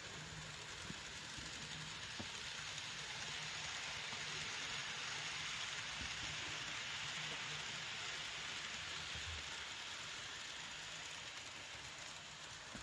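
N-gauge model train running on the track: a steady hissing rattle of small wheels on the rails and the motor, growing louder toward the middle and easing off near the end.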